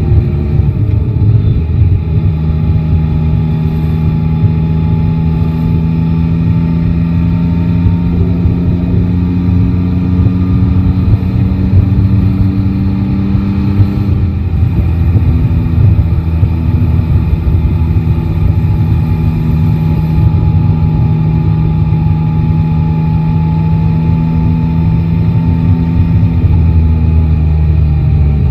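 Three-cylinder motorcycle engine running at steady cruising revs under wind and road noise. The pitch rises slowly for about the first half, drops briefly near the middle, then holds steady again.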